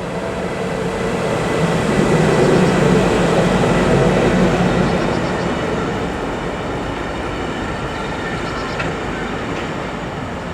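A train passing on the rails, swelling to its loudest about two seconds in and easing off after about five seconds, a steady rumble with a faint high tone through it.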